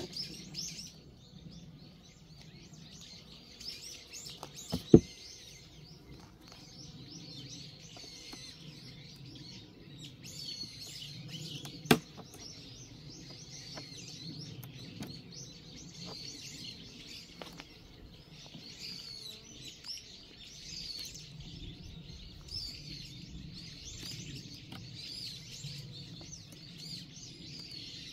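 Small birds chirping and calling continuously, over a low steady hum of honeybees from an open hive. Two sharp knocks, about five seconds in and again about twelve seconds in, as a metal hive tool pries at the wooden frames.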